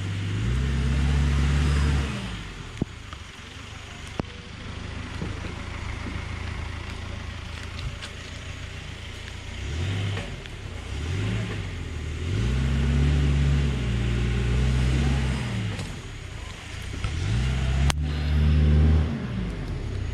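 Off-road 4x4's engine revving in several surges, each rising and then falling in pitch, with a lower, quieter running in between.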